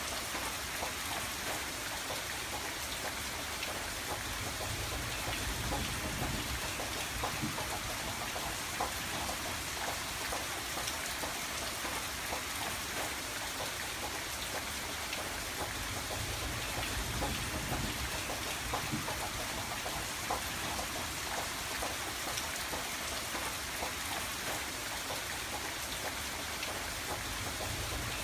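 Steady rain on a window: an even hiss with many scattered drop ticks, under a low rumble that swells and eases a few times.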